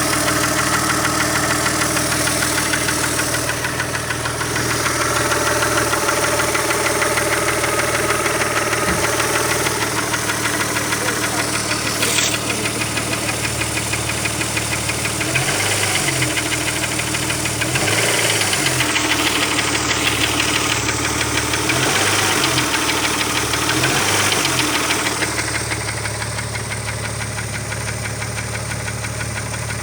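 Opel Omega B engine running with a rapid, even knocking, which the owner puts down to the camshaft.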